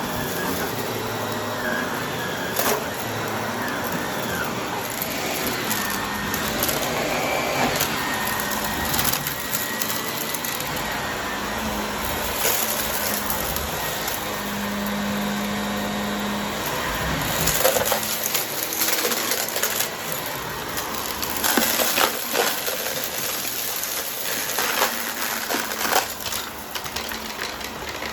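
Vacuum cleaner with its brushroll running over crunchy debris, a steady motor noise with frequent crackling and crunching pops as the debris is sucked up.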